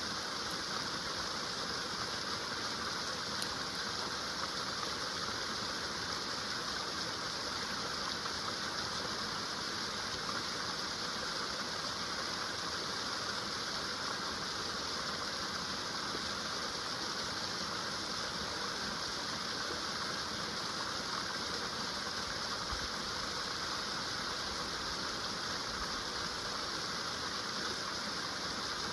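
Small woodland stream running over little waterfalls: a steady, unbroken rush of water.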